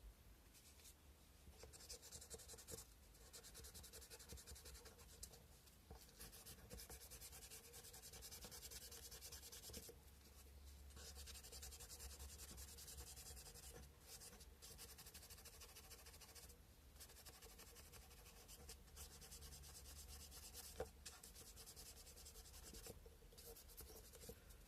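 Faint hand sanding of a cow-bone carving with sandpaper: scratchy rubbing in runs of strokes, broken by short pauses. There is a single sharp click near the end.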